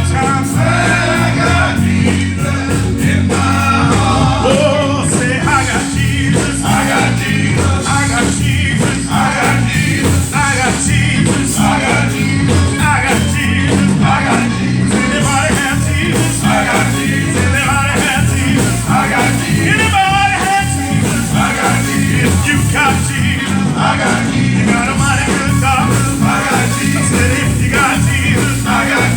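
Live gospel praise music: a church band with drums and bass playing a steady beat under singing voices.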